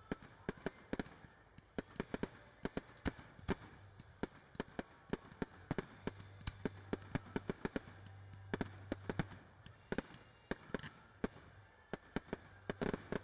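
Fireworks crackling: a dense, irregular run of sharp pops, several a second, some louder than others.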